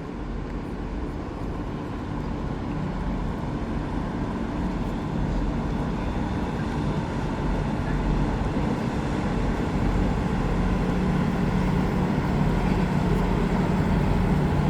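A large ship's engine rumbling steadily, growing gradually louder as the vessel draws closer.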